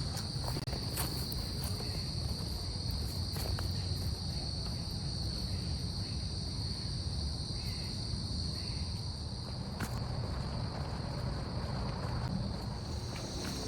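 Steady high-pitched trilling of a cricket chorus, unbroken throughout, over a low rumble and a few faint clicks.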